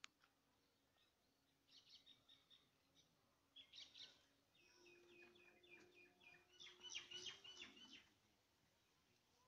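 Faint birdsong: scattered high chirps, then a run of quick repeated notes, busiest about seven seconds in. A faint steady low drone sounds under the calls for about three seconds in the second half.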